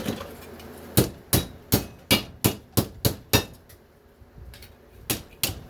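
Hammer blows flattening a chunk of scrap aluminum, sharp ringing strikes at about three a second. After a pause of over a second, the hammering starts again near the end.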